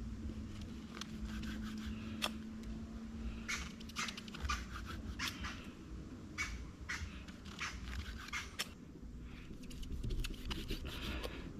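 Butcher knife slicing through bicycle inner-tube rubber, a run of irregular short cutting and scraping strokes over a steady low hum.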